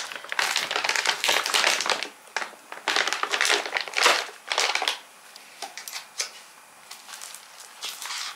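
Packaging crinkling and rustling as it is handled, in dense bursts for about the first five seconds, then a few lighter rustles and taps.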